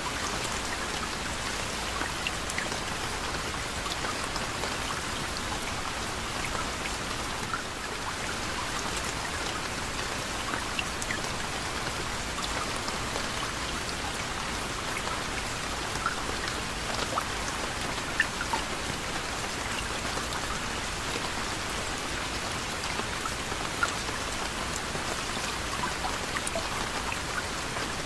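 Soft, steady rain falling on a surface, with individual drops ticking now and then over the even hiss.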